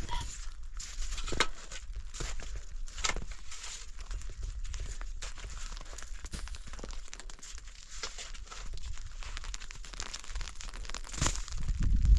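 Rustling and crinkling with scattered clicks and knocks over a low steady rumble, growing louder near the end.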